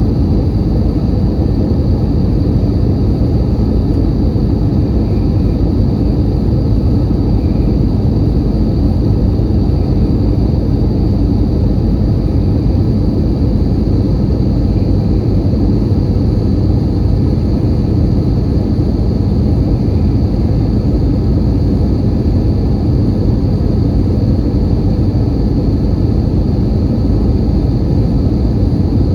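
Airbus A320 cabin noise in flight: the steady roar of the engines and the air rushing past the fuselage, with a thin, steady high whine over it.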